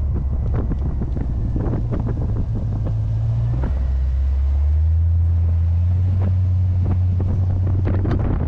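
Chevrolet small-block 350 V8 of a C3 Corvette running on the road, its low engine note dropping in pitch about three and a half seconds in, under heavy wind buffeting on the microphone.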